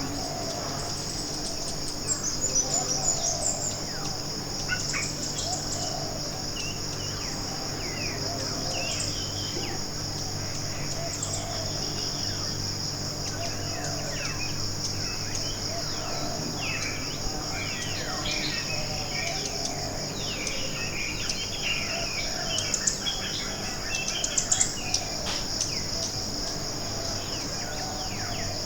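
Tropical forest ambience: a steady, high-pitched insect chorus runs throughout, with scattered bird chirps and calls over it, most busily about two seconds in and again near the end. A steady low hum sits underneath.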